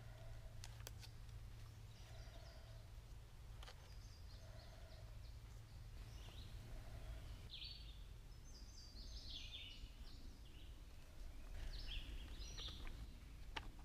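Faint woodland birdsong: scattered short, high chirps, thickest in the second half, over a low steady rumble, with a few sharp clicks.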